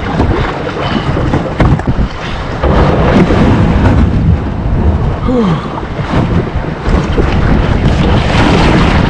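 Strong wind buffeting the microphone over choppy waves splashing against a kayak, which is taking on water in the rough conditions.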